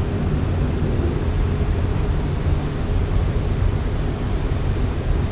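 Steady background rumble and hiss with no distinct events, heaviest in the low end.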